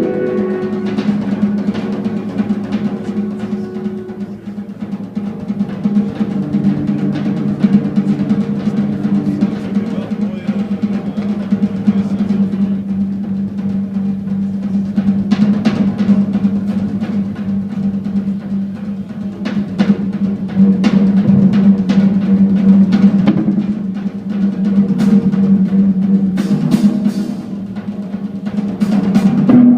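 Live jazz-rock band playing loud: a drum kit with rolls and cymbal hits, busiest in the second half, over a steady held low note.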